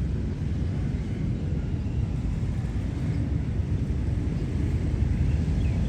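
A steady low rumble, with a few short, high bird chirps near the end.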